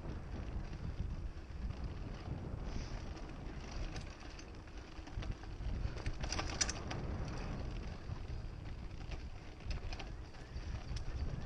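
Wind buffeting an action-camera microphone over the low rumble of mountain bike tyres rolling on a dirt trail, with a cluster of rattling clicks from the bike about six seconds in.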